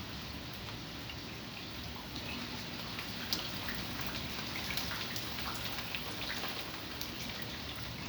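Steady rain falling, with many small scattered drop ticks on top of an even hiss.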